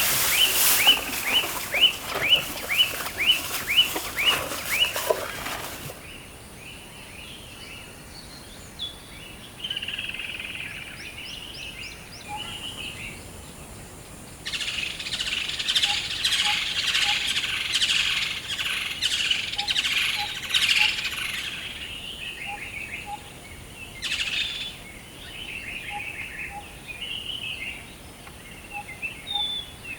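Several birds calling in forest: a fast string of short, falling whistled notes, about two a second, over harsh chattering for the first five seconds, then quieter scattered calls, and a second long spell of harsh chattering midway through.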